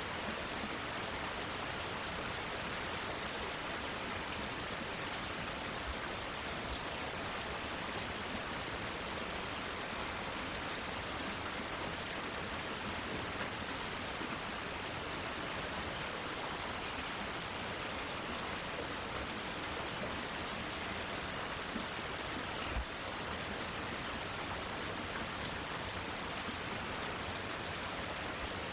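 Steady rain falling on foliage, an even, unbroken patter. A single low knock sounds about three-quarters of the way through.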